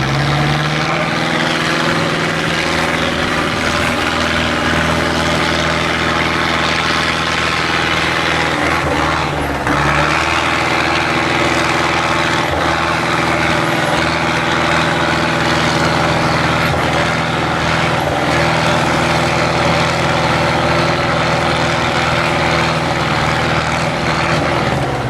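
IFA W50 off-road trial truck's diesel engine running steadily under load. Its pitch rises right at the start, dips briefly about ten seconds in, then settles again a little higher.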